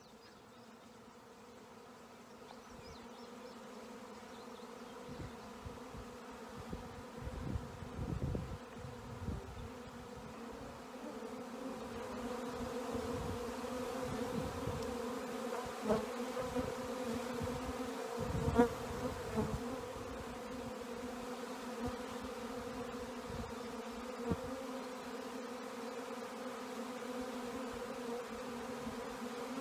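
Honey bee swarm in flight: the steady buzzing drone of thousands of bees, a low hum with overtones that grows louder over the first dozen seconds, with a few brief low rumbles on the microphone.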